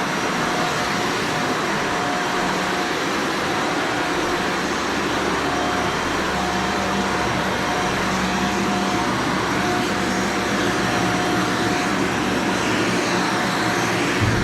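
Shark Vertex vacuum cleaner running steadily as it is worked slowly over carpet, with a whining tone that drops in and out.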